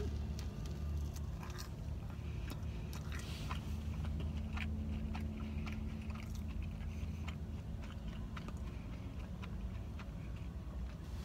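A person biting into and chewing a bacon sandwich on a flaky, buttery croissant-style bun, with small crunches and chewing sounds over a steady low hum.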